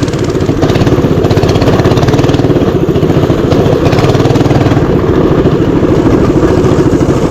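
Mini bike engine running loud and steady under way, with a fast, even beat of firing pulses.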